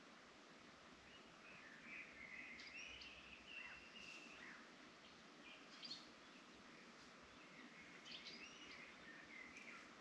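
Faint birdsong: short chirping phrases that come and go over a low, steady background hiss.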